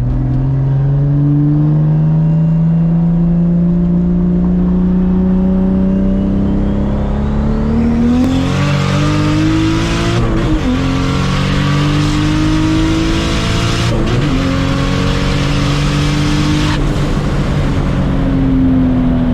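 Turbocharged Toyota Supra MK4 straight-six through a 4-inch exhaust, pulling away in second gear with its note climbing slowly. About 8 seconds in it comes on boost, louder and hissier, with quick shifts about 10 and 14 seconds in. About 17 seconds in it lifts off and the note sinks as the car cruises.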